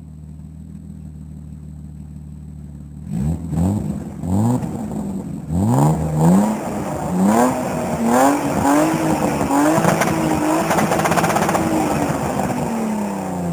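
BMW E36 325i's 2.5-litre inline-six on its original exhaust, idling steadily, then blipped sharply two or three times from about three seconds in. It is then revved up and held high with the revs wavering for several seconds before dropping back near the end.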